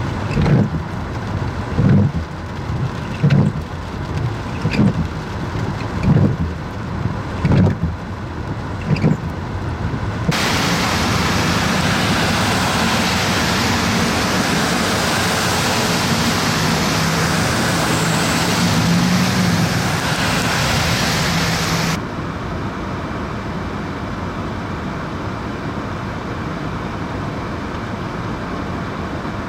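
Thunderstorm rain and wind heard around a vehicle, in three abrupt cuts. First a run of regular low thumps about every second and a half over the noise, then a louder steady downpour with a low hum underneath, then a steadier, lighter rush of rain.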